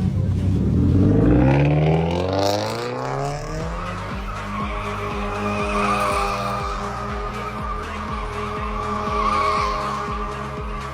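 Toyota GT86's flat-four engine revving up hard over the first few seconds, then held at high revs while the tyres squeal through a drift.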